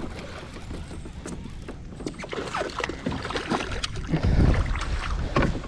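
Splashing water and irregular knocks and rattles on a kayak as a hooked bass is landed, with one heavy thump about two-thirds of the way in.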